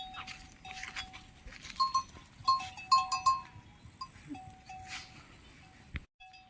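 Livestock bells on herd animals clanking and ringing irregularly, with a flurry of clanks in the middle.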